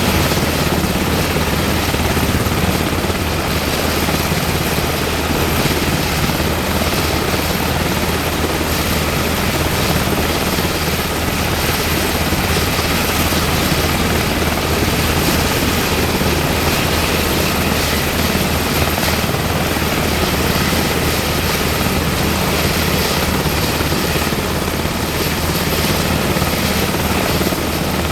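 UH-60M Black Hawk helicopter running steadily, its twin turboshaft engines and rotor making a loud, even sound with no change in pitch.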